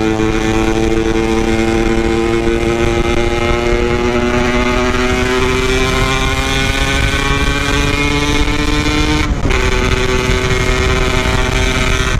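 Yamaha RX-King's single-cylinder two-stroke engine pulling in gear, its pitch rising slowly as the bike gathers speed. About nine seconds in the note breaks briefly and drops for a gear change, then carries on steady and lower.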